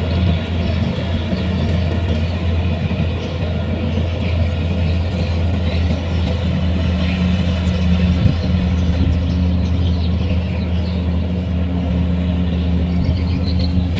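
Kubota rice combine harvester's diesel engine running steadily, a constant low drone with machinery noise above it.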